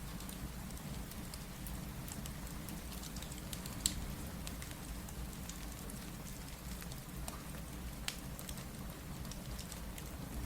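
Steady rain with a low rumble, mixed with a crackling wood fire: scattered small crackles throughout and two sharper pops, about four and eight seconds in.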